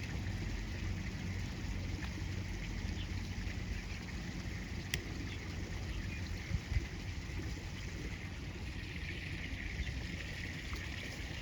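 Steady noise of river water flowing, with one faint sharp click about five seconds in.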